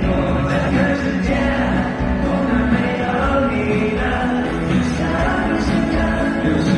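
Live pop music from a band, with many voices singing together.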